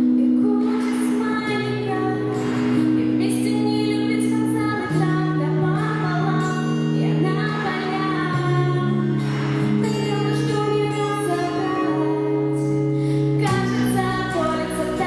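A woman singing a slow pop ballad over a backing track of sustained chords that change every few seconds.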